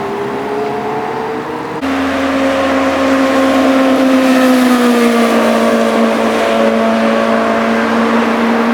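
Superbike engine running hard with a steady, high exhaust note that eases down slightly in pitch and then holds. There is an abrupt change in the sound about two seconds in.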